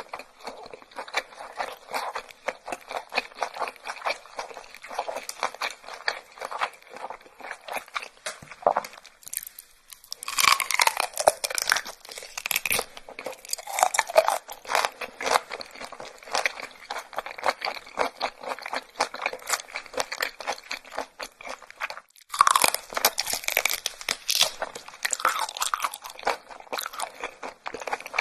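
A person chewing crunchy food close to the microphone, with dense rapid crunching and crackling. Louder crunching bites start about ten seconds in and again about twenty-two seconds in, each after a brief pause.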